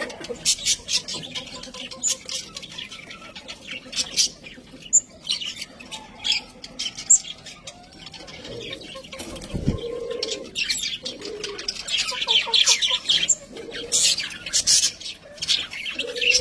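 Budgerigars chirping and warbling continuously, a busy chatter of short, high calls with occasional squawks, busiest in the second half.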